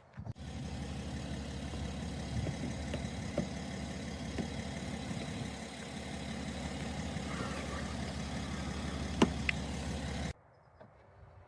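Car engine idling steadily, with a sharp click a little after 9 seconds. It starts and cuts off abruptly.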